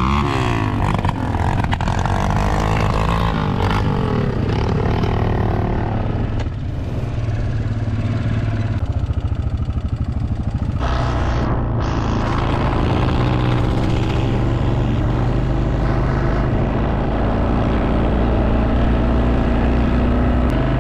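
Quad bike engine running under load while being ridden, its revs changing as it goes, with a brief easing of the throttle about six seconds in.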